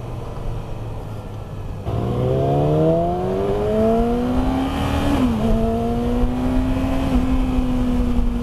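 2019 Yamaha R6's inline-four engine with a Yoshimura exhaust under hard acceleration. The engine runs low for about two seconds, then the revs climb for about three seconds, dip sharply with an upshift about five seconds in, and hold fairly steady after.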